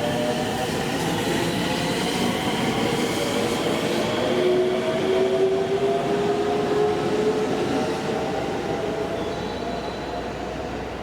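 Train pulling out of a station: its drive tone rises slowly in pitch as it gathers speed, over steady wheel-on-rail noise.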